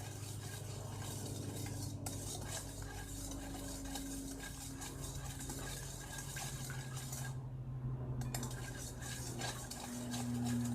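A tablespoon stirring borax into a liquid in a bowl, with quick, continuous clinks and scrapes against the bowl as the borax dissolves. The stirring stops for about a second around seven seconds in, then starts again. A steady low hum runs underneath.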